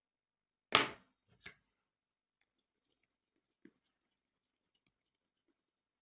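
A sharp knock about a second in, a softer knock half a second later, and a faint tap a couple of seconds after that, from kitchen handling during food preparation.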